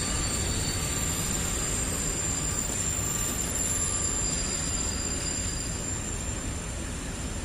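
Freight train of coal wagons rolling slowly, with a steady rumble and thin, high-pitched squeal from the wheels and brakes. The noise eases slightly near the end.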